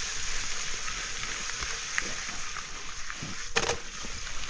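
Zucchini sizzling in melted butter in a pan as it is stirred, with a steady hiss. A utensil knocks against the pan about three and a half seconds in.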